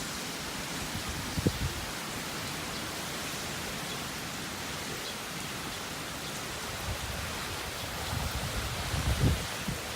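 Typhoon rain and wind: a steady hiss of heavy rain. Short low gusts of wind buffet the microphone once about a second and a half in, then repeatedly near the end.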